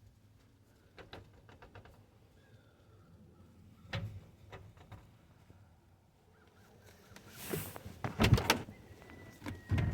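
Vehicle door and cab handling: scattered clicks and light knocks, then a swish and loud clunks about eight seconds in, with a thin steady high tone starting just after.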